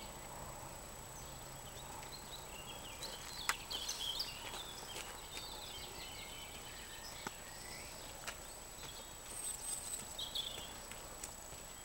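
Small birds chirping and singing on and off, with a few sharp single clicks.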